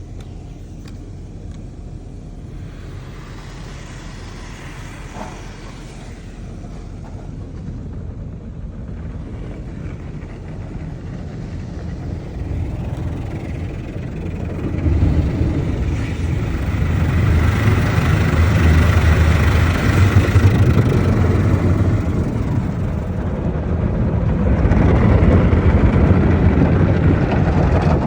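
Car wash machinery running: a steady rumble with rushing noise that grows clearly louder about halfway through.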